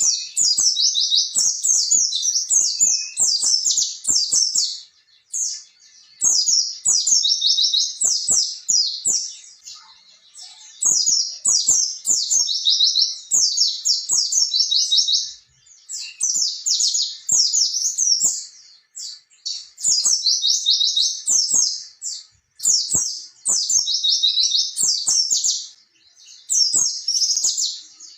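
White-eye (pleci) singing in full, vigorous song: long runs of rapid, high-pitched warbling trills, each phrase a few seconds long with brief pauses between.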